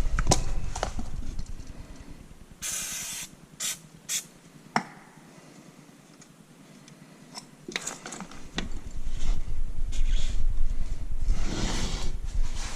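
Work on the vacuum pump's metal parts: scattered sharp clicks and knocks, a short hiss about three seconds in, and a low rumble at the start and again after the middle.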